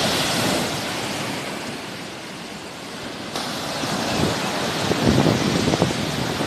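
Sea surf washing onto the shore, swelling, easing for a moment, then building again. Gusts of wind buffet the microphone in the second half.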